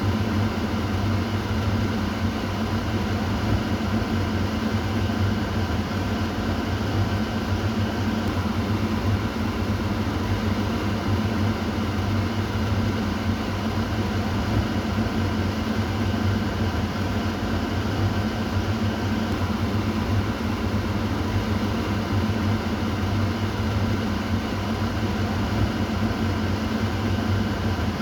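Kitchen exhaust fan running with a steady low hum and airy rush, unchanging throughout.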